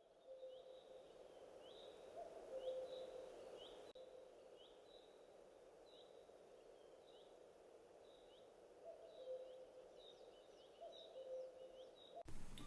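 Faint bird calls: a short high chirp repeated about every two-thirds of a second, with lower short notes now and then. Loud music cuts in abruptly at the very end.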